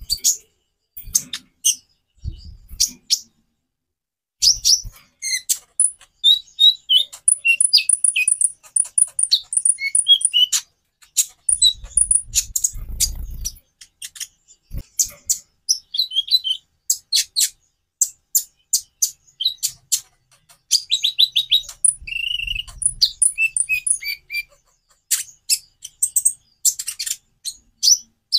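Konin (kolibri ninja) sunbird singing: a long run of rapid, high-pitched chirps, twitters and fast trills with short breaks. A few soft low thuds come in between, three times.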